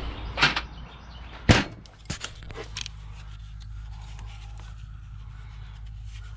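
A few sharp clicks and knocks from parts and tools being handled while dismantling an engine bay, the loudest about a second and a half in, then a steady low hum.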